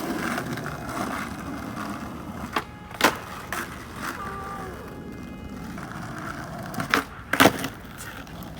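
Skateboard wheels rolling over pavement, broken by sharp clacks of the board in two pairs about half a second apart.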